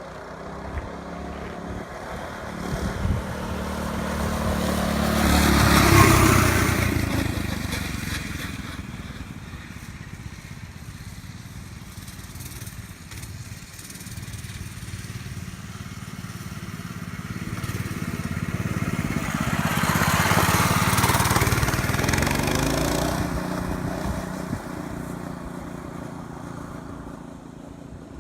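Mini bike engines passing by twice: the engine sound swells to a peak about six seconds in and fades, then comes round and peaks again about twenty seconds in before fading away.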